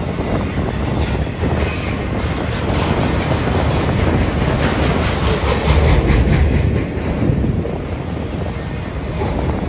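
Freight train of autorack cars rolling past close by: a steady low rumble of steel wheels on the rail. Brief high wheel squeal about a second and a half in, then a fast run of evenly spaced metallic clicks for a few seconds mid-way.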